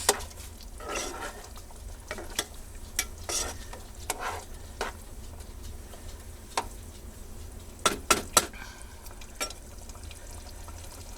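Stirring a pot of simmering curry, the utensil clicking and knocking against the pan now and then, three times in quick succession about eight seconds in, over a faint sizzle.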